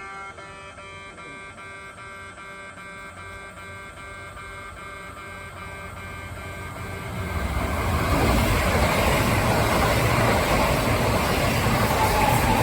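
Electronic level-crossing bell ringing in a repeating beeping pattern. About seven seconds in, a Kintetsu Osaka Line train passes through the station without stopping, and its loud rush of wheels on rail builds quickly and drowns the bell.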